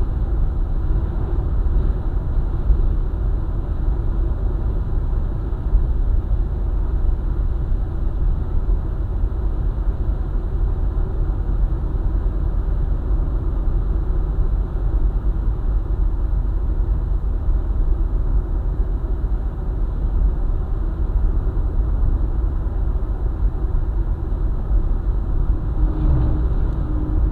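Steady low rumble of a car driving along a highway: tyre and engine noise with no breaks. A faint steady hum joins briefly near the end.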